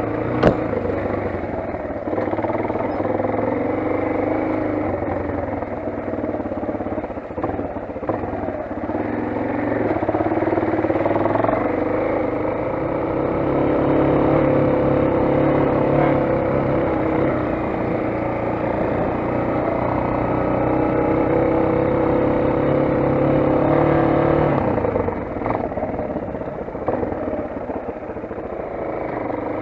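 Motoland XR 250 enduro motorcycle's single-cylinder engine running under way, its pitch rising and falling with throttle and gear changes. A sharp click about half a second in.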